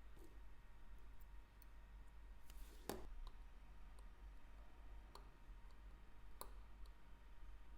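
Faint, sparse clicks and taps of small metal tools and watch parts at a watchmaker's bench over a low hum: one sharper click about three seconds in, then two lighter ones.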